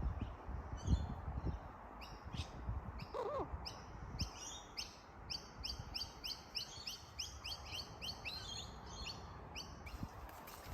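Bird chirping: short high chirps that speed up into a fast run of about four or five a second in the middle, with one lower falling call about three seconds in. Dull low thumps sound in the first few seconds.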